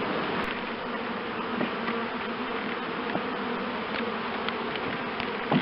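Honeybees buzzing steadily, a dense hum from a crowd of bees around an opened hive and the comb frame being held up.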